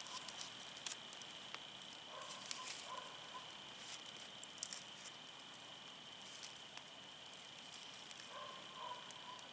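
Wood fire burning quietly, with faint crackling and scattered small pops from the firewood.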